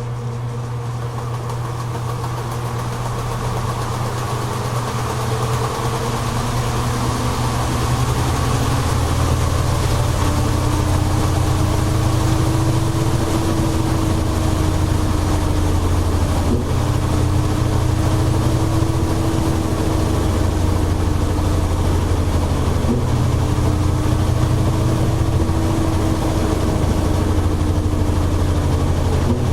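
Toshiba AW-42SEE4 top-loading fully automatic washing machine spinning: the motor and tub speed up over the first several seconds, growing louder, then run steadily with a deep hum and a slightly wavering whine.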